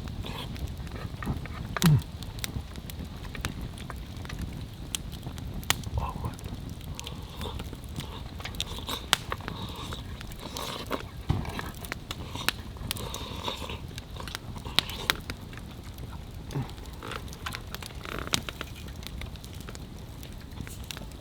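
Wood campfire crackling, with irregular sharp pops and snaps throughout. A brief, louder low sound falls in pitch about two seconds in.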